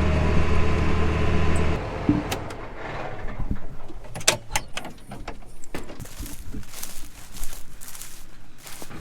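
Engine running steadily, then cutting off suddenly about two seconds in, followed by scattered metallic clicks and knocks.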